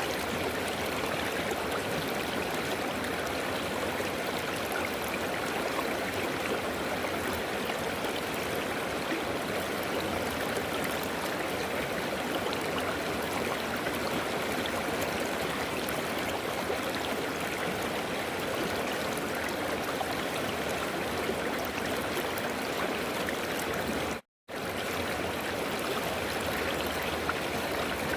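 River water flowing over rocks in a steady, unbroken rush. The sound cuts out completely for a split second about 24 seconds in, then resumes.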